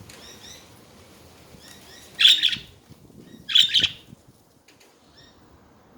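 Pet budgerigars chattering with small high chirps, broken by two loud rasping bursts about two and three and a half seconds in.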